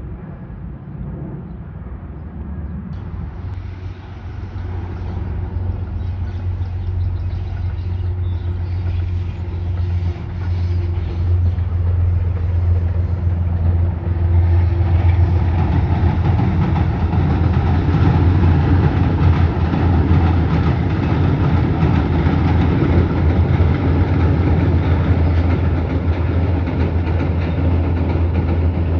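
Metro-North train approaching and running past, a steady low rumble that grows louder over the first half, then stays loud with added wheel and track noise.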